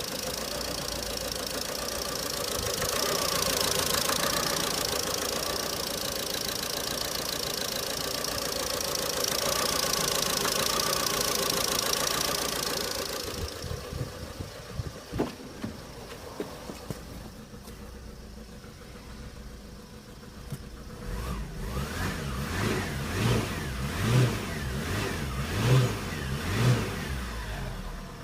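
Ford Focus Mk2 1.8 TDCi (KKDA) four-cylinder turbodiesel engine running. It runs louder for the first dozen seconds, then settles to a quieter idle with a few knocks. About 21 seconds in, the throttle is blipped about six times, the revs rising and falling each time.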